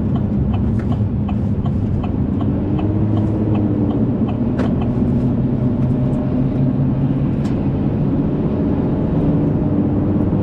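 A car running at road speed, heard from inside the cabin: a steady engine and road drone, with a light, even ticking at about three a second.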